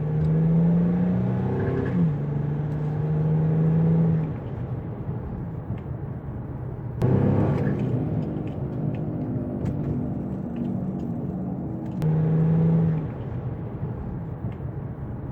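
Interior sound of an Infiniti G35 driving, its 3.5-litre V6 pulling hard for the first four seconds, easing off, then picking up again about seven and twelve seconds in, over steady road noise. There is no wheel-bearing hum: the new bearing has made the drive quiet.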